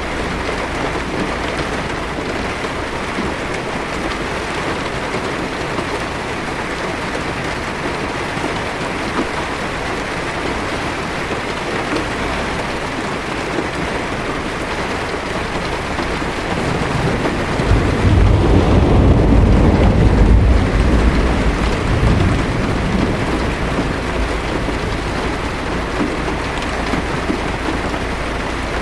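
Steady heavy rain falling on a car's windshield and roof, with a low rumble of thunder that swells about two-thirds of the way through and dies away over a few seconds.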